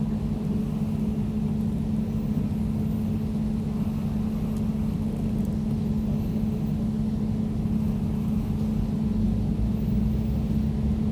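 Air conditioner running steadily: an even low hum with one held tone in it, unchanging throughout.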